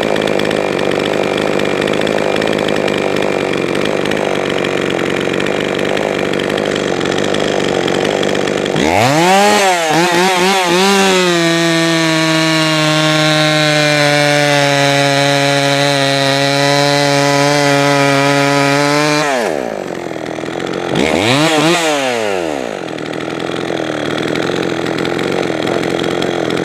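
Jonsered 525 two-stroke chainsaw idling, then blipped a few times and held at full throttle for several seconds before dropping back. It is revved once more a little later, then settles back to idle. The saw is running well on a freshly retuned carburetor.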